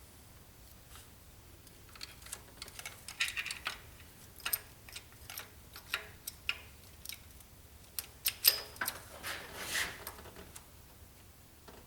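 Irregular light metallic clicks and clinks of hand tools and small engine parts being handled during timing chain work, with a few sharper knocks and a brief jangle in the second half.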